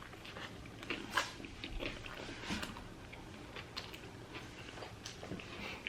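A man biting into and chewing a cheeseburger close to the microphone: soft, irregular mouth and chewing sounds with small clicks.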